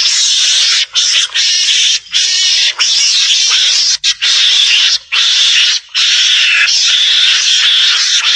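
Mongoose (garangan) calls played as a hunting lure: a loud, continuous string of harsh, raspy calls with short breaks about every second.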